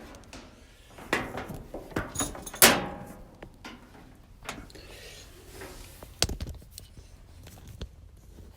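Handling noise: a scattered series of knocks, clicks and light rattles as something is moved and set down, the sharpest about two and a half seconds in and a dull thump about six seconds in.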